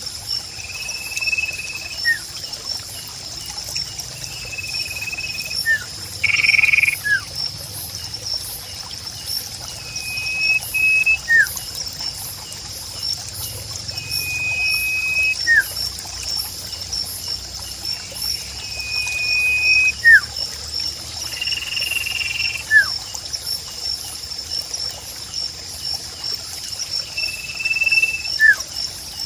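A bird repeats a held high whistle about every four to five seconds, each followed by a short falling note, over a steady high pulsing insect trill.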